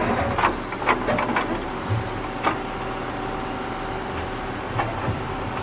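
A small motor whirring steadily, with a quick run of clicks and knocks in the first two and a half seconds and a couple more near the end.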